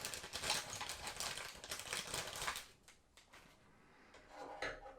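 Plastic parts and packaging being handled, a rapid patter of small clicks and crinkles for about two and a half seconds. It goes almost quiet, then a few softer handling noises come near the end.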